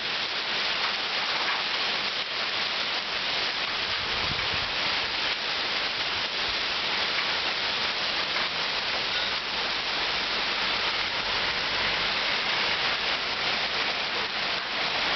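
Heavy rain falling steadily: an even hiss of countless drops striking surfaces.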